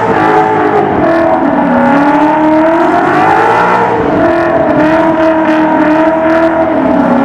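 Mustang engine held at high revs during a burnout, its pitch wavering up and down, with a steady rushing noise underneath.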